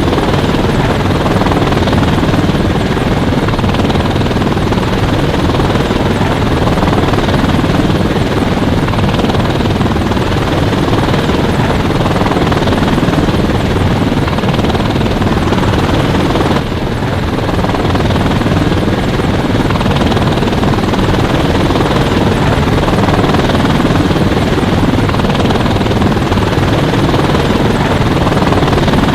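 Helicopter in flight, heard from on board: its rotor and engine run with a loud, steady noise that dips briefly about halfway through.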